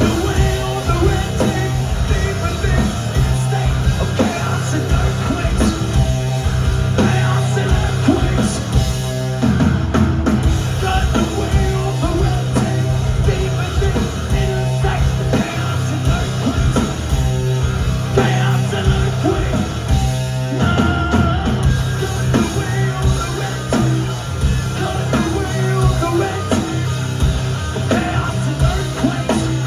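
Live heavy rock band playing at full volume: distorted guitars, heavy bass and pounding drums, with some singing, heard through a crowd recording in a club.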